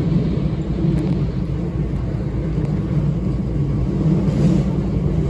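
Hankyu commuter train running, heard from inside the front car: a steady low rumble of wheels and running gear.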